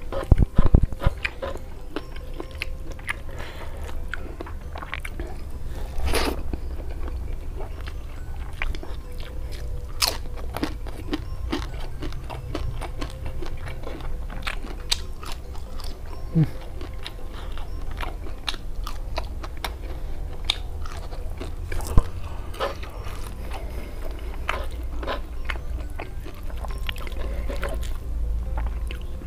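Close-up eating sounds: crunching and chewing of crispy fried food, in irregular crackles with a few sharper snaps.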